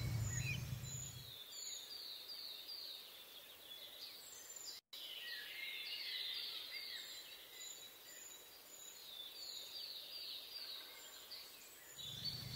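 Outdoor bird song: quick, downward-sliding high whistled notes repeated in runs throughout. A low rumble fades out in the first second and a half and returns near the end, and the sound drops out completely for a moment about five seconds in.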